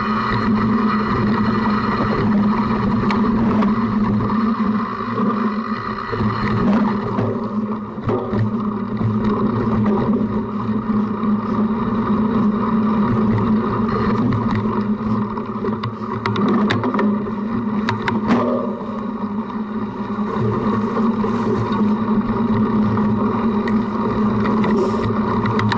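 Cyclocross bike ridden over rough off-road ground, heard through a bike-mounted action camera: continuous rumble and rattle with many short knocks from bumps, and wind on the microphone.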